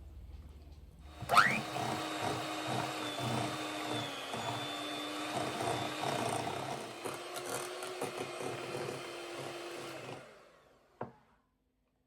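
A small electric motor appliance running steadily for about nine seconds, starting suddenly with a quick rising whine and winding down near the end, then a single click.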